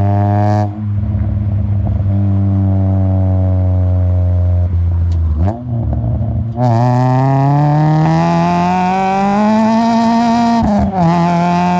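Honda K24A2 four-cylinder engine in an Acura TSX pulling at a steady pitch, then, after a short break, revving up hard for about four seconds before the throttle closes and the pitch drops. The car is in third gear with the front wheels spinning on snow.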